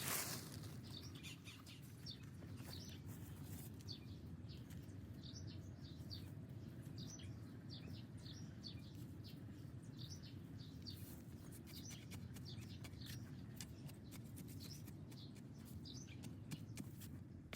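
Small birds chirping repeatedly and faintly over a steady low outdoor rumble, with a few faint clicks in the last few seconds.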